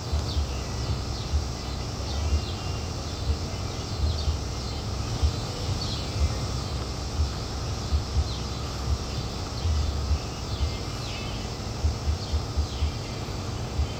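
Birds chirping again and again in short falling notes, over low rumbling bumps of wind on the microphone.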